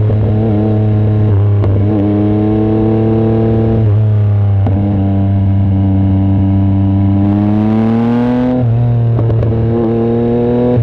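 Yamaha MT-09 SP's three-cylinder engine running through an exhaust with its baffle removed, pulling while riding. The pitch climbs steadily, drops at an upshift about four seconds in, climbs again, and drops at a second upshift near the end before holding steady.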